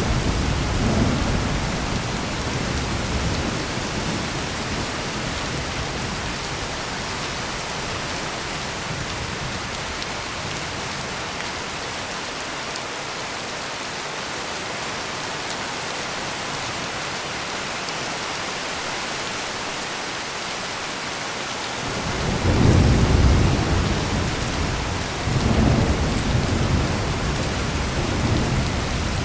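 Heavy steady rain with rolling thunder: a low rumble fading over the first few seconds, then a louder clap of thunder rumbling up about two thirds of the way through, followed by a second rumble a few seconds later.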